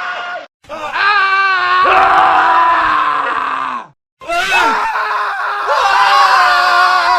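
Men screaming, one separate scream after another with short silent cuts between them. The first trails off just after the start, a long wavering scream runs from about a second in and falls away near four seconds, and another begins just after it.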